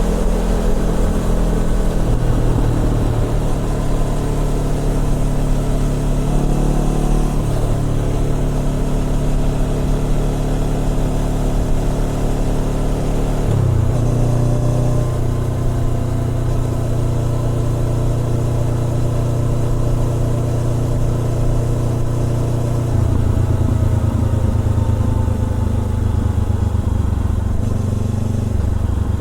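Honda CBR400R parallel-twin engine running through a Trick Star Ikazuchi aftermarket exhaust while riding, its engine note holding steady and then changing pitch in steps several times as the revs change.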